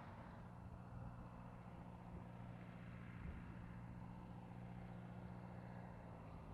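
Faint, steady hum of a light aircraft's piston engine running at low power, with a few even low tones and no change in pitch.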